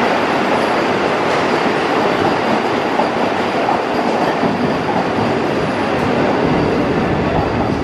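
Train running along the rails through a station, heard from aboard: a steady, loud noise of wheels and carriage.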